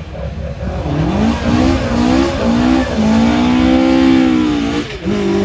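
Rally car engine accelerating hard, changing up through the gears in quick succession about four times, then holding high revs for nearly two seconds with a brief lift near the end.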